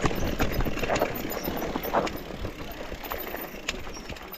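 Mountain bike working over rough, rocky trail: a jumble of knocks, clicks and rattles over a steady rushing noise, busiest in the first two seconds.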